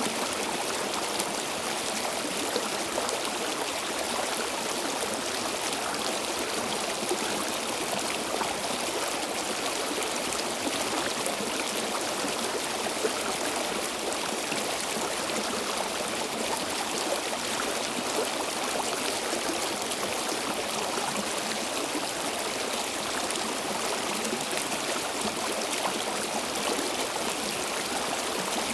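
Stream water flowing steadily, an even rushing splash with no pauses.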